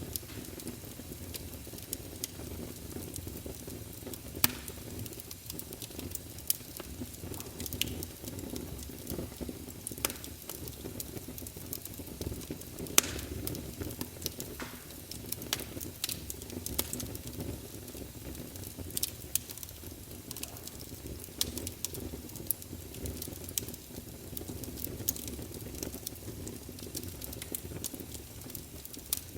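Wood fire burning in a fireplace: a steady low rush of flames with frequent sharp crackles and pops from the burning logs, the loudest pops about four and thirteen seconds in.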